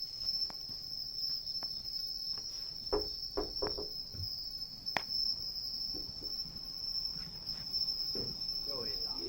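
Crickets trilling steadily at a high pitch, with a few sharp pops and crackles from a wood campfire: a cluster about three seconds in and the loudest single pop about five seconds in.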